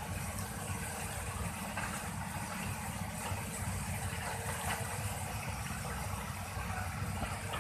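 Excavator's diesel engine running steadily, a continuous low rumble with no sudden changes.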